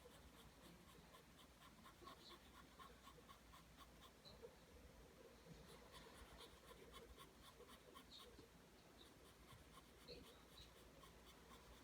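Faint scratching of a pencil drawing lines on paper: many short strokes in quick succession.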